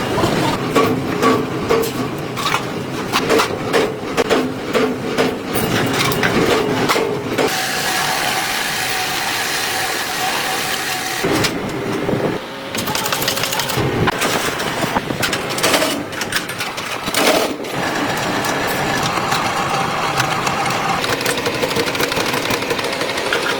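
Workshop fabrication noise: a run of sharp knocks, then a machine running steadily, changing abruptly several times.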